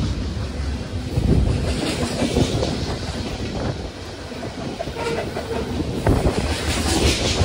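Cars of a long freight train rolling past, wheels clicking and clacking over the rail joints over a steady low rumble.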